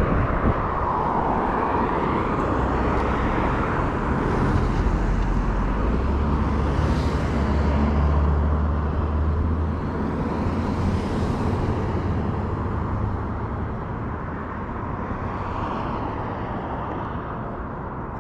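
Steady rush of wind and outdoor noise on the microphone of a chest-mounted camera on a moving bicycle. A heavier low rumble swells about six to ten seconds in.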